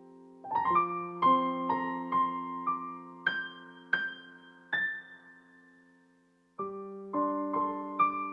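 Background piano music: a slow melody of single struck notes, each ringing and fading, with a pause of about a second and a half in the middle before the notes resume.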